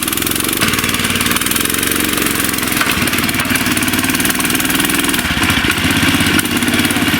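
Boat outboard motor running steadily, its pitch shifting slightly now and then.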